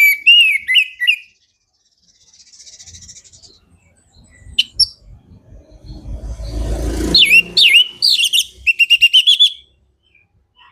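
Orange-headed thrush singing loud, clear whistled phrases of gliding notes, ending in a quick run of repeated notes. A low rustling noise comes about six seconds in, under the second phrase.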